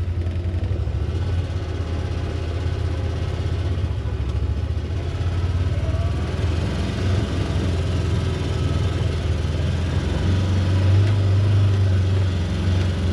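A vehicle's engine running steadily as it is driven, a low drone that swells louder about ten seconds in.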